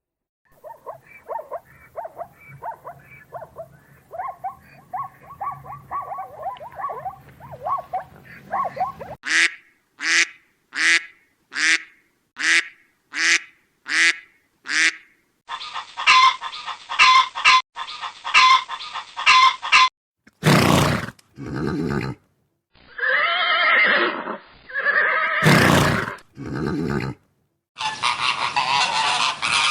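A run of different animal calls spliced one after another. A stretch of many small chattering calls gives way, about nine seconds in, to seven loud calls evenly spaced about twice a second. More clips of calls follow, with several loud single calls near the end.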